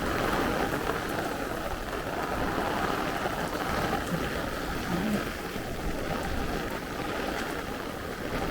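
Heavy downpour of rain falling steadily on street and pavement.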